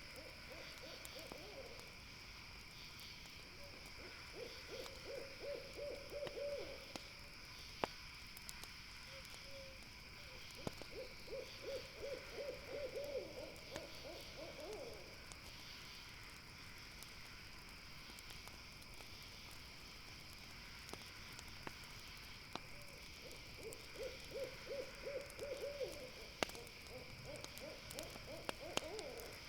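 An owl calling four times, each call a rapid trilled run of hoots lasting two to three seconds. Behind it is a steady high chorus of night insects, with a few sharp pops from the campfire.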